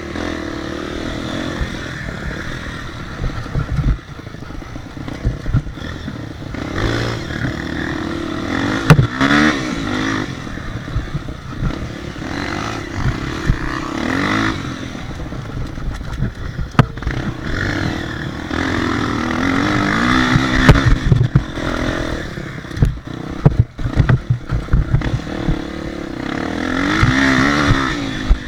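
Motocross motorcycle engines running, their pitch rising and falling again and again as they rev, with a sharp knock or clatter now and then.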